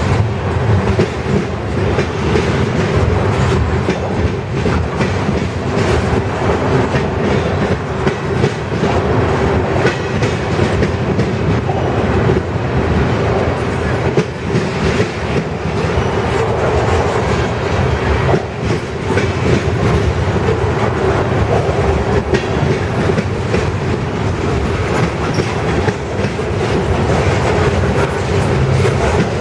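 Freight train cars rolling steadily past, wheels clicking and clattering over the rail joints.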